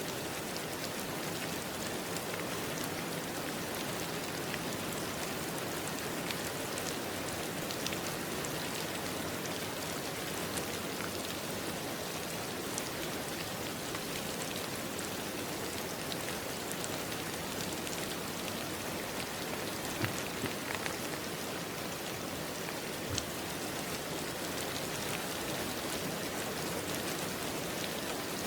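Steady rain falling on a surface, an even hiss with scattered individual drop ticks and a few slightly louder drips about two-thirds of the way through.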